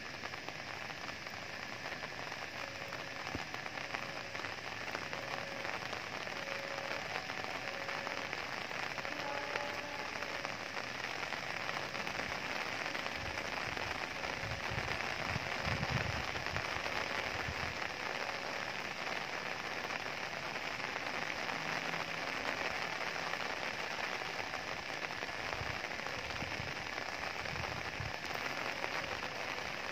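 Steady rain falling, an even hiss with no letting up. A low rumble rises and fades about halfway through, and another comes near the end.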